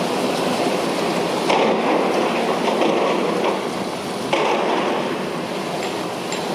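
Heavy construction machinery on a foundation dig running with a steady, loud mechanical noise, the noise swelling briefly twice, with a few faint clicks.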